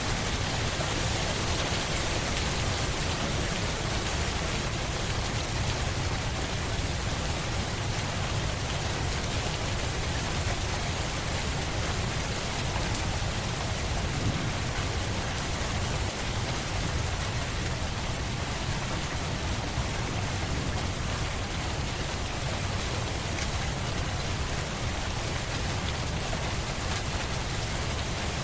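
Steady heavy rain falling on a surface, an even hiss with a deep low rumble beneath it.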